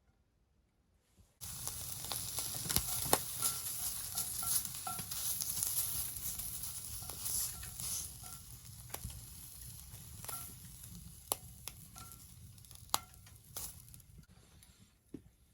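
Beef searing in a hot skillet: the sizzling starts suddenly about a second and a half in, with scattered pops, and slowly dies down.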